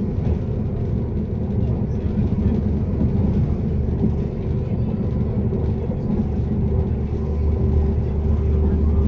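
Cabin running noise of a CAF Class 195 diesel multiple unit moving at speed: a steady low rumble with a faint steady tone above it. The low hum grows stronger about seven seconds in.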